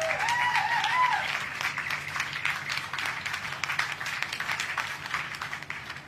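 A few bird calls in the first second, curving up and down in pitch, over a dense crackling patter like applause.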